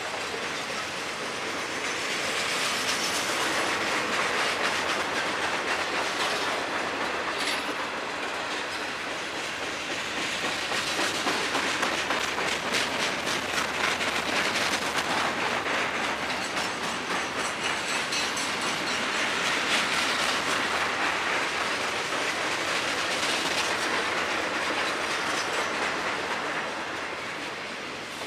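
Freight train's mixed cars (boxcars, gondolas, flatcars, tank cars) rolling past: a steady rattle and rumble with wheels clicking over rail joints, the loudness rising and falling as the cars go by.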